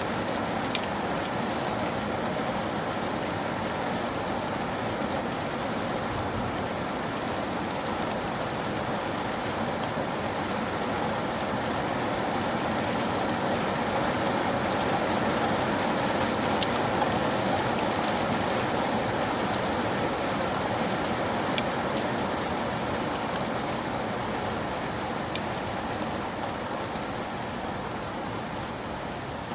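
Steady rain falling, with scattered individual drops tapping clearly on a surface. It swells slightly midway and eases a little near the end.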